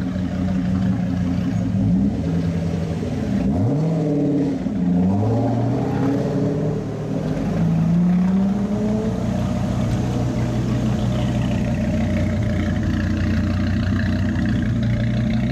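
Chevrolet Corvette V8 engine driving off, its revs rising and falling several times, then settling into a steady engine drone.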